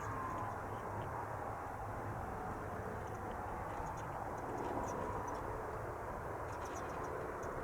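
Beechcraft 1900 twin-turboprop climbing away after takeoff: a steady engine drone with a faint whine that slowly falls in pitch as it recedes.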